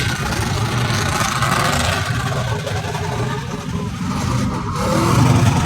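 A truck engine running with a heavy low rumble, swelling a little near the end.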